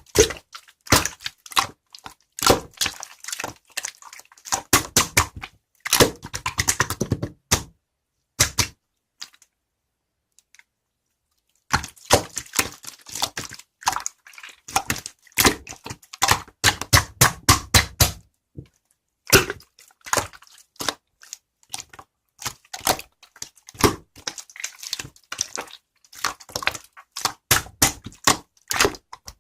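Slime being squeezed and poked by hand, making rapid clicking and crackling pops, with a pause of about three seconds near the middle.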